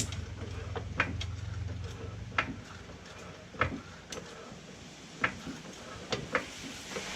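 A car jack being worked to lift a car, giving sharp clicks or knocks about once a second at uneven spacing.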